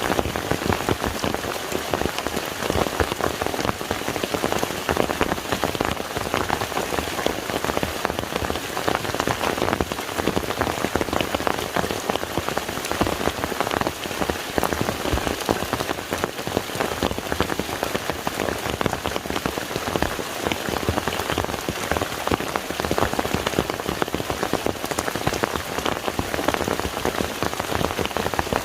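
Steady rain falling onto a lake, a dense even hiss of countless drops striking the water.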